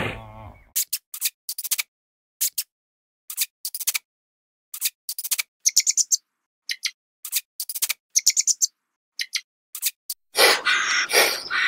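Guinea pig biting and chewing grass blades: quick bursts of crisp snipping clicks, a few to several bites at a time, with silent gaps between bursts. About ten seconds in, a louder, rough rustling noise takes over.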